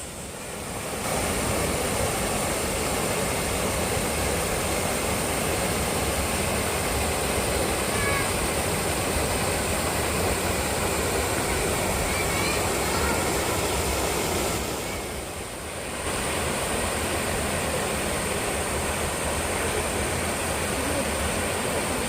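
Waterfall water rushing steadily, dipping briefly about fifteen seconds in, with a few faint high chirps.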